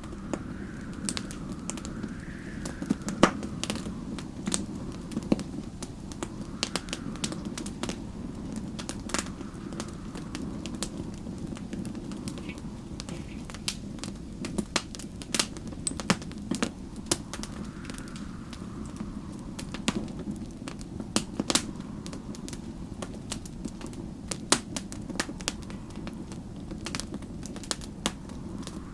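Wood fire crackling, with irregular sharp pops over a steady low rumble. A faint snowstorm wind whistles in slow rising and falling swells behind it.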